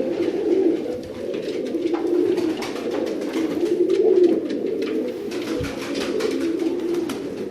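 Many domestic pigeons cooing at once, a continuous overlapping chorus of low, warbling coos echoing in a small room.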